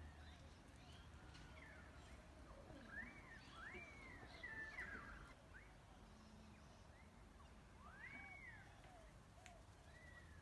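Birds singing faintly: a series of clear whistled notes, each rising and then falling, bunched together a few seconds in and again later on.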